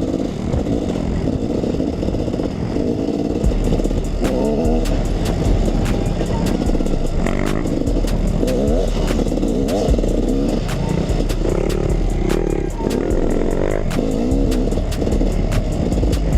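Two-stroke KTM 300 EXC enduro dirt bike engine being ridden, its pitch rising and falling as the throttle is worked, with frequent sharp knocking and clattering over rough ground.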